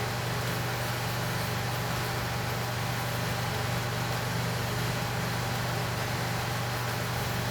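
A steady low electric hum with an even hiss, unchanging in pitch and level.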